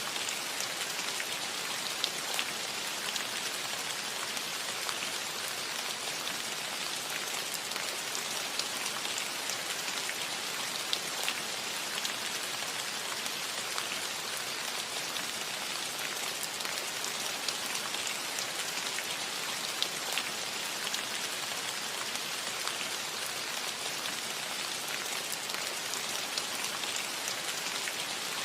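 Steady rain falling on a metal roof: an even hiss with many scattered drop ticks.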